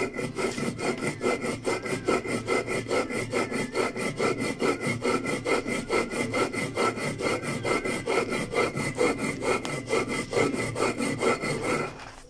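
Stone mano scraping back and forth over a stone metate in quick, even strokes, grinding toasted black corn into fine pinole flour. The grinding stops near the end.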